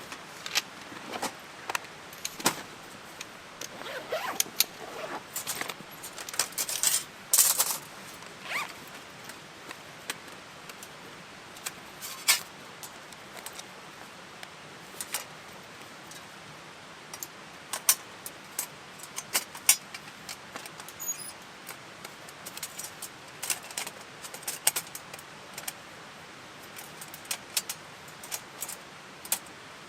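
Scattered small clinks, taps and rustles of gear being handled, in irregular clusters over a faint steady hiss.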